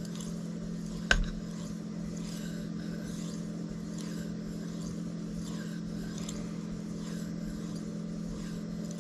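Steel knife blade drawn in slow strokes along a fine Shapton Kuromaku 5000 whetstone, giving faint soft swishes about once a second, at the mirror-polishing stage. Under it runs a steady low hum, and there is one sharp click about a second in.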